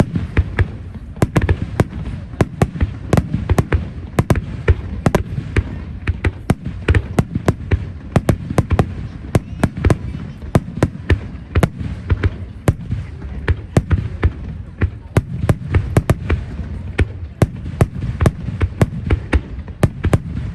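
Aerial fireworks going off in a dense barrage: sharp bangs and crackles several times a second over a continuous low rumble of booms.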